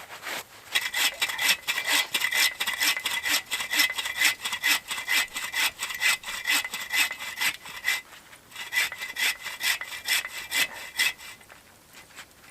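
Hand saw cutting through wood in quick, even back-and-forth strokes, about three to four a second, with a brief pause about eight seconds in and stopping near the end.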